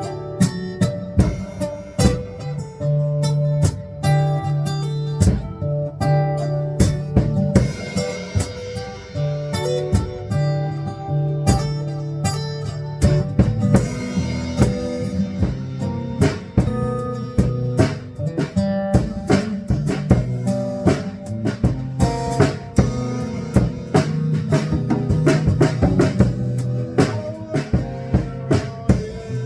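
Live band jamming: guitar and bass notes with a drum kit keeping a steady beat.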